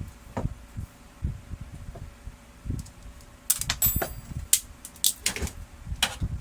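Irregular knocks and clicks of plastic parts being handled and fitted, with a short cluster of sharper clicks and rattles about halfway through.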